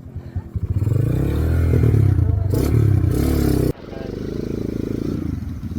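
Motorcycle engine pulling hard under throttle, then the throttle is shut abruptly about four seconds in and it drops back to a lower, steadier running note.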